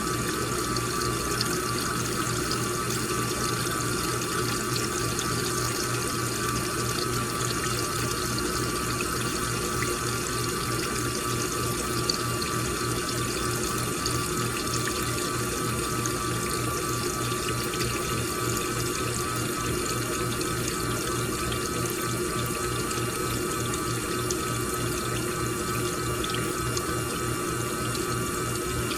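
Washing machine with water running steadily into the drum as it fills, with a low pulsing hum from the machine underneath.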